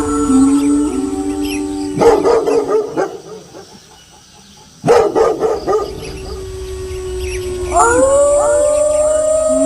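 Wolves howling in a chorus of long, overlapping held notes. About two seconds in, a burst of dog barking cuts in and fades to a short lull. The barking starts again abruptly, and near the end a fresh chorus of howls rises in pitch.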